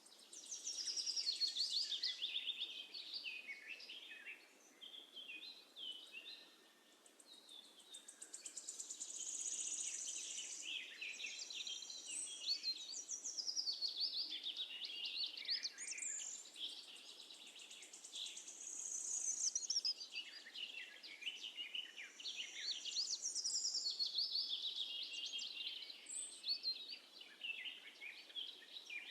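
A flock of sparrows chirping, many short calls overlapping in a steady chatter that swells and dips in loudness.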